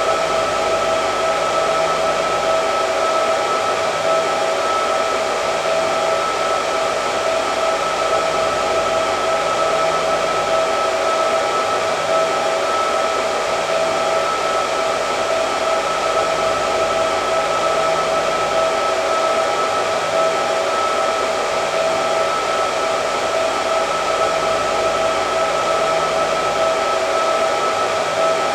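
Hair dryer running steadily, a constant whooshing airflow with a steady whine on top that holds one pitch throughout.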